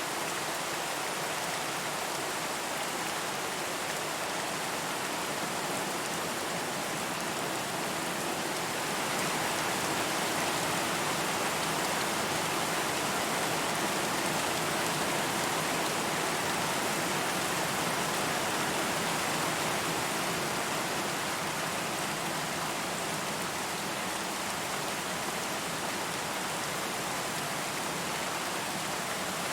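Steady rain falling, an even hiss of dense drops that swells slightly for a stretch in the middle.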